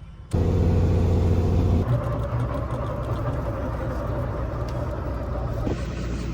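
Helicopter engine starting up: a steady hum cuts in abruptly, then turns into a rougher running sound about two seconds in.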